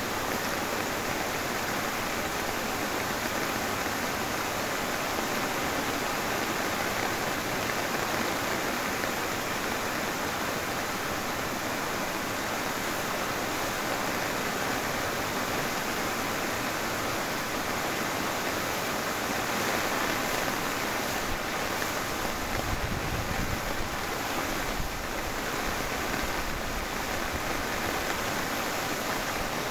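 Heavy rain pouring steadily, an even hiss. A low rumble joins it for a few seconds about three-quarters of the way through.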